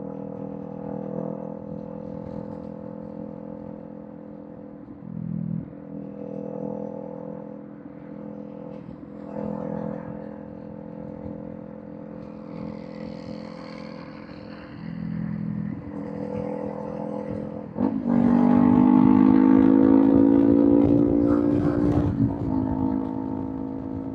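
Kawasaki Z400 parallel-twin engine with a Villain M1 aftermarket exhaust running at highway speed. The note dips and shifts briefly a few times. About 18 seconds in it turns much louder under hard acceleration, pitch rising for a few seconds, then eases off.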